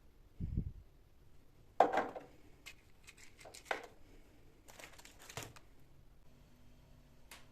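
A dull thud, then a string of sharp clicks, knocks and rustles from objects being handled during housework.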